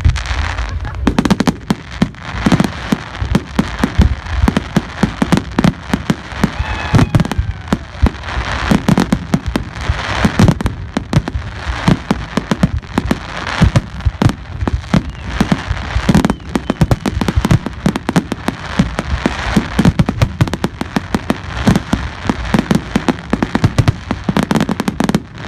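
Fireworks display: a dense, continuous barrage of bangs and crackling, many reports a second, with deep thumps among the sharper cracks.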